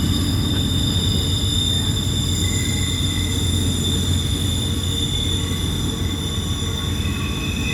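Freight train rolling through a tight curve: a steady low rumble of wheels and cars, with a high, steady squeal of wheel flanges against the rail.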